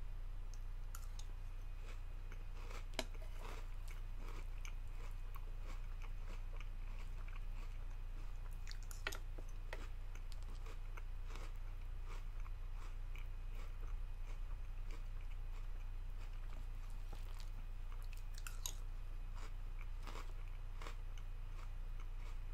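A mouth chewing and crunching Booty O's cereal, with scattered crackles and a few sharper clicks, over a steady low hum.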